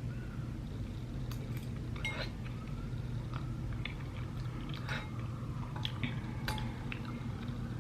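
A person chewing tteokbokki close to the microphone, with scattered small mouth clicks, over a steady low hum.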